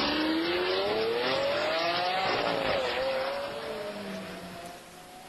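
A car engine accelerating hard, its pitch climbing steadily, dropping briefly near the middle as if shifting gear, then climbing again while the sound fades away.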